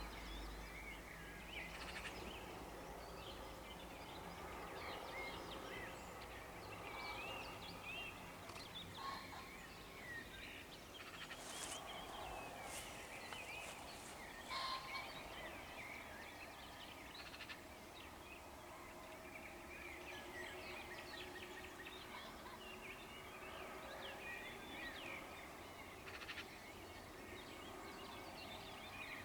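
Dawn chorus of many songbirds singing and trilling over one another, with a common pheasant's harsh crow standing out about halfway through.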